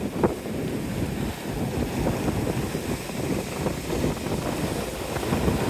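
Strong beach wind buffeting the microphone in a steady low rumble, with surf breaking behind it.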